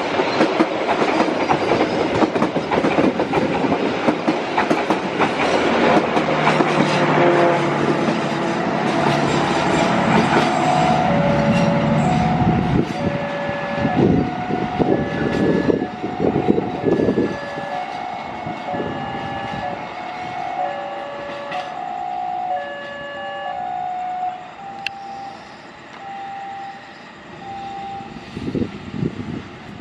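Passenger train rolling past with loud wheel clatter and rumble over the rails, fading after about ten seconds. As it fades, a repeating two-note electronic signal, short alternating tones about twice a second, keeps sounding until near the end.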